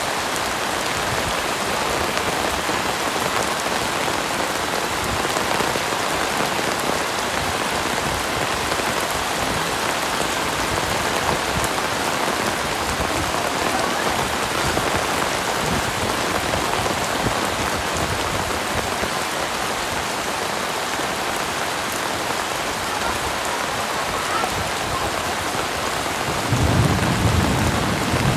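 Heavy rain falling steadily, with a low rumble of thunder coming in near the end.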